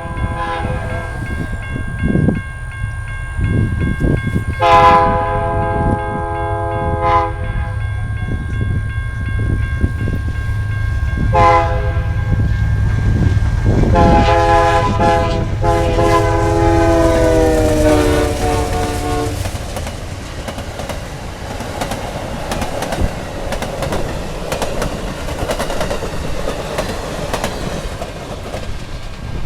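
Amtrak Silver Star passenger train sounding its horn as it approaches, in a long, long, short, long pattern. The last long blast drops in pitch as the locomotive passes. A diesel rumble runs underneath, followed by the steady rolling clatter of the passenger cars going by.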